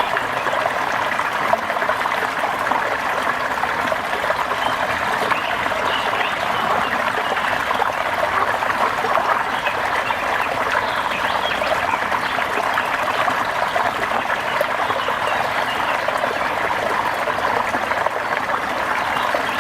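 Steady rain falling, with dense fine patter and trickling water.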